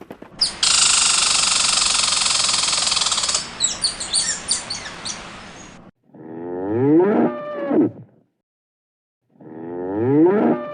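Domestic cow mooing twice: two long, low calls a few seconds apart, each bending in pitch. Before them, a loud steady hissing noise lasts about five seconds and then cuts off.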